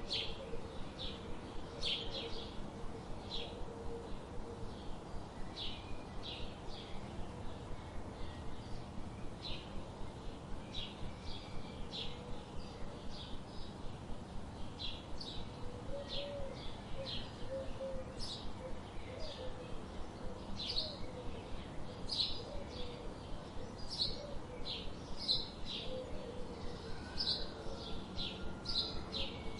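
Small birds chirping: short high-pitched chirps repeated over and over, about two or three a second, with a few faint lower warbling notes now and then.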